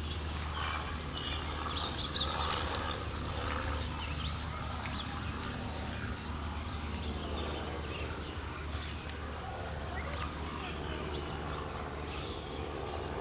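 Faint scattered bird calls over a steady low hum.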